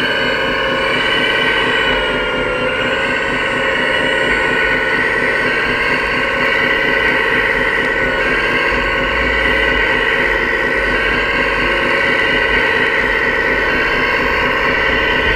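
Steady whine of a 1/14-scale RC construction model's electric motors and hydraulics, several high tones held together that dip slightly in pitch a couple of seconds in and again near the end.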